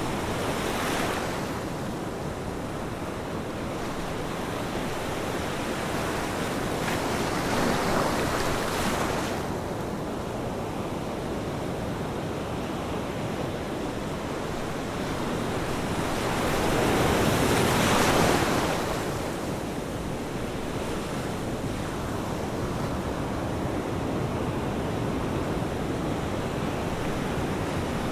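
Ocean surf: a steady rush of waves, with three waves breaking and washing in, about a second in, around eight seconds, and the loudest near eighteen seconds.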